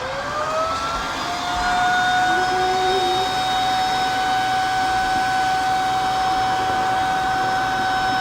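Motor of a Tineco Floor ONE S5 cordless wet-dry vacuum spinning up and then running steadily. Its whine rises in pitch during the first second or so, then holds a steady tone over an even rush of air.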